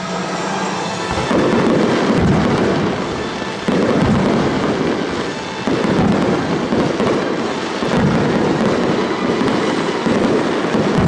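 Fireworks going off in a steady series of booms about every two seconds, each followed by crackling, over show music played along with the display.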